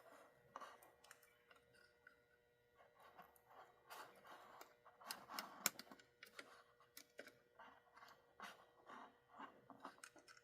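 Faint, irregular small clicks and rustles of small model-locomotive parts being handled at a workbench, over a faint steady electrical hum.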